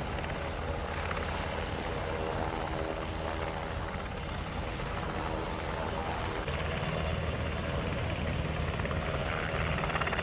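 Helicopter running, a steady rotor and turbine sound that changes character about six and a half seconds in.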